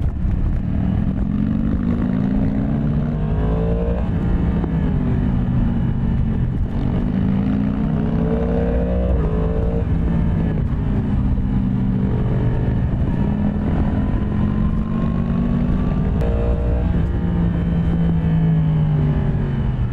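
Yamaha MT-10 SP's crossplane inline-four engine under hard riding, its pitch climbing as it accelerates and dropping at each gear change, over and over.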